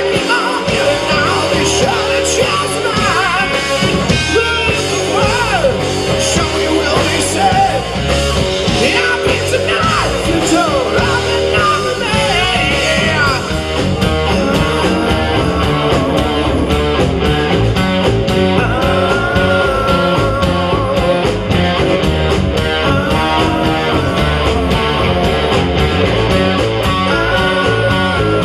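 Live rock band playing loudly and without a break: electric guitar, bass and drums.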